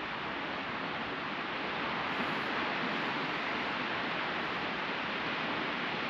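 Sea surf washing steadily onto the beach, a continuous hiss that swells slightly about two seconds in.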